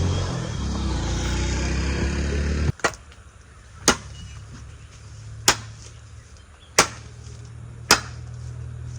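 A loud rushing noise for the first few seconds stops abruptly. Then come single sharp chops of a tool cutting into wood, one every second or so, four in all, as a canoe is carved from a log.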